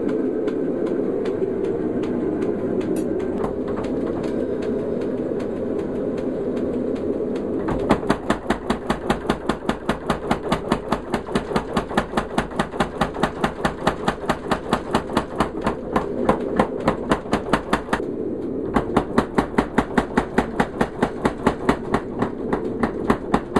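A gas forge's steady rush, then, from about eight seconds in, a 25 lb Little Giant trip hammer striking in a fast even rhythm of roughly five blows a second, breaking off briefly near the end and starting again.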